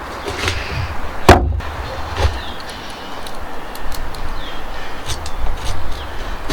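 Wooden knocking from timber being handled: one sharp knock about a second in, then a few lighter clicks and taps over a low rumble.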